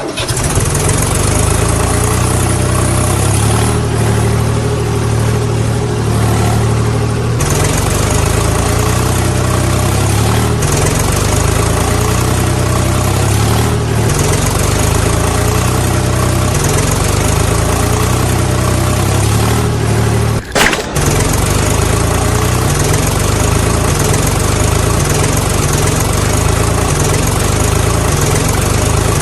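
Tractor engine sound running steadily with a low, even chugging pulse. It cuts in abruptly, and there is a brief break about twenty seconds in.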